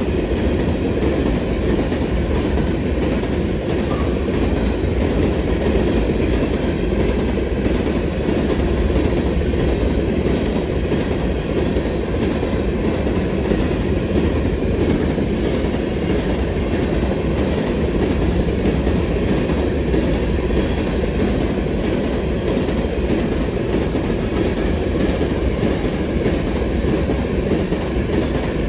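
CSX freight train of hopper cars rolling past, its wheels running steadily on the rails.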